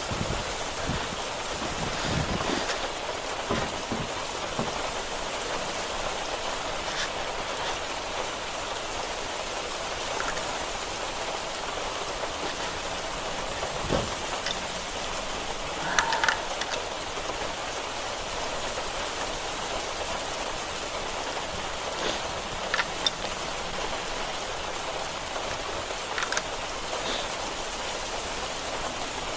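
Steady hiss of rain falling, with a few scattered light knocks and clicks.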